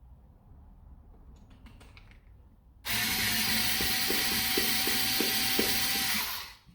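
Handheld power driver motor spinning at a steady speed for about three and a half seconds, starting about three seconds in. A regular light clicking rides over the motor near the middle of the run.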